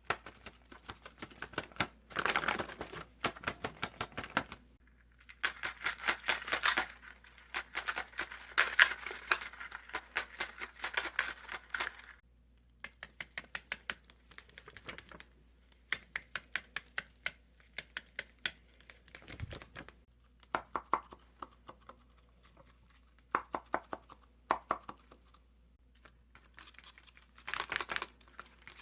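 Folded paper dragon puppet's jaws being snapped open and shut, giving rapid runs of sharp paper clicks with some crinkling. The clicks come in bursts of a few seconds with short pauses between them.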